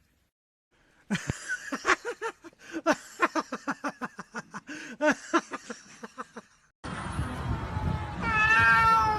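A domestic cat making a rapid string of short, repeated meows, about three a second. After a cut there is a steady background noise, and near the end one long meow falling in pitch.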